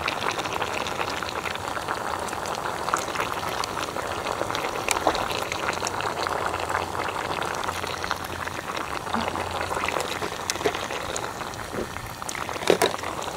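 Hotpot broth boiling steadily, a continuous bubbling with many small pops.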